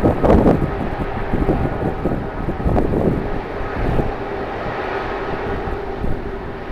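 Strong gusty wind buffeting the microphone, over a steady hum from a jet airliner's engines.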